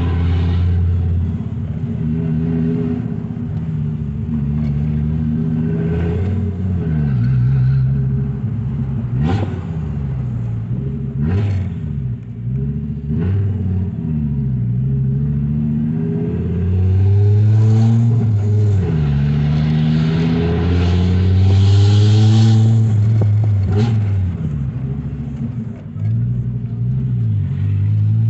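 Fiat Marea 2.4 20-valve inline five-cylinder engine heard from inside the cabin while driving, exhaust running through a straight-through diffuser fitted in place of the catalytic converter. It holds a steady note at first, then repeatedly climbs in pitch and drops back as the car accelerates and shifts gears, loudest about two-thirds of the way through.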